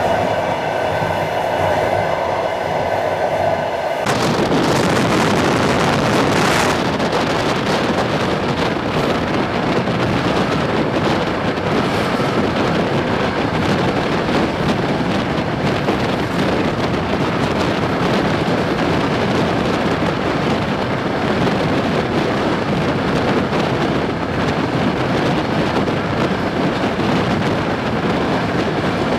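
Long-distance passenger train in motion: a steady, loud running noise of the carriages on the rails. It sounds muffled for the first four seconds, then opens out into a full, even noise.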